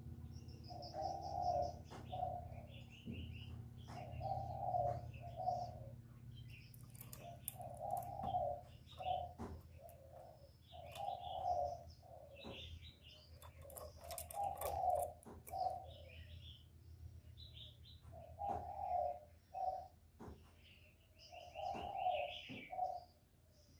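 Spotted dove cooing, short phrases of two or three notes repeated every three seconds or so, with small birds chirping higher in between.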